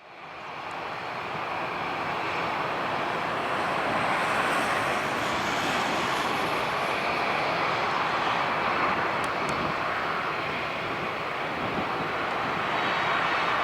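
Airbus A330-300's General Electric CF6 turbofan engines: a steady jet roar that swells in over the first second or two and then holds. A faint high whine joins near the end.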